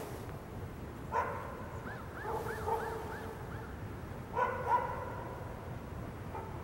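Steam locomotive whistle, a chord of several steady tones, sounding two blasts and then a short toot near the end.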